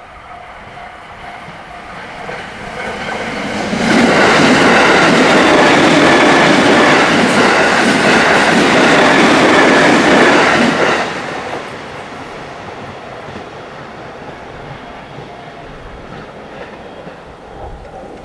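A train passing over a level crossing: a rush of wheels and rail clatter builds, stays loud for about seven seconds, then drops away quickly. The crossing's warning bell keeps ringing faintly under it, most audible before and after the train.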